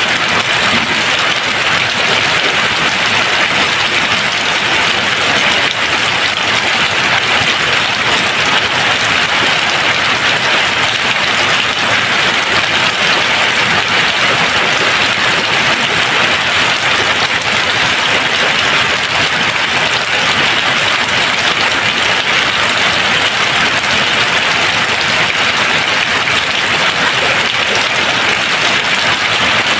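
Steady, even rain noise with no thunder, a constant hiss of falling rain.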